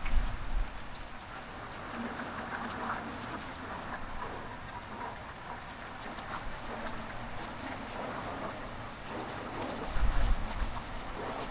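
Heavy rain falling steadily on surfaces, with two brief low rumbles, one at the start and one near the end.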